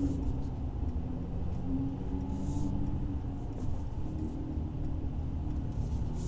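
Mercedes-AMG C43's twin-turbo V6 with AMG performance exhaust running at low, steady revs, a low drone heard from inside the cabin with the windows up.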